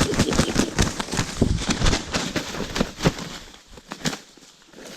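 Close rustling and crackling handling noise, dense and irregular for about three seconds, then dropping off to a quieter stretch with a couple of soft knocks.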